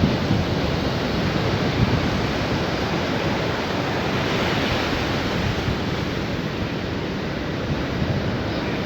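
Sea waves washing onto a beach: a steady rush of surf that swells a little about halfway through.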